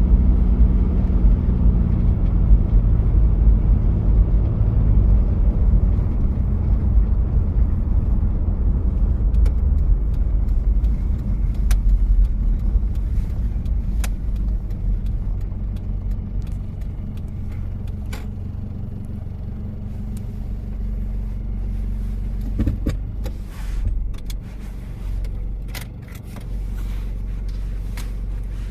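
1993 Toyota Prado diesel engine running, its low rumble easing off over the first half and settling to a quieter, steadier drone. Scattered sharp clicks come in from about ten seconds on.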